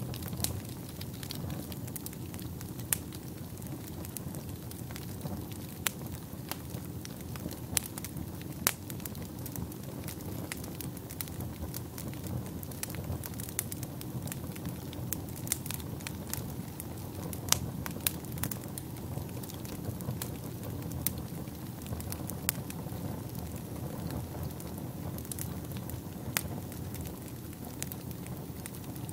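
Wood fire burning in a fireplace: a steady low rumble of flames with frequent sharp crackles and pops scattered irregularly throughout, one of the loudest a little past halfway.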